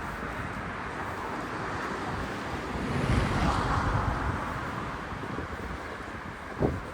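Outdoor ambience with wind noise on the microphone, swelling for a second or two about three seconds in, and a short bump near the end.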